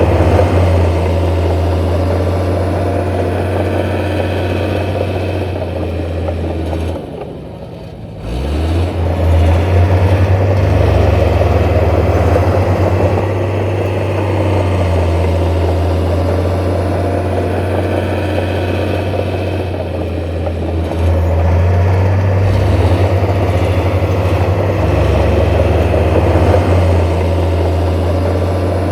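Heavy diesel engine of earth-moving machinery running steadily, easing off briefly about a quarter of the way in before picking up again.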